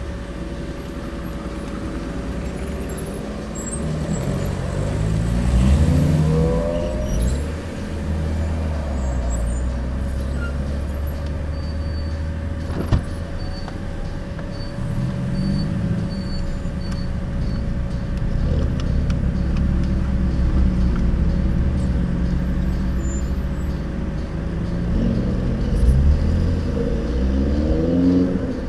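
BMW E36 323i's 2.5-litre straight-six with an aftermarket stainless exhaust, heard from inside the cabin at low speed. The engine note rises as the car accelerates about five seconds in and again near the end, and otherwise runs steadily at low revs, with one sharp click about halfway.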